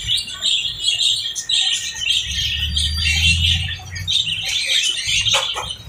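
Small pet parrots chattering and squawking in a constant run of shrill, overlapping chirps.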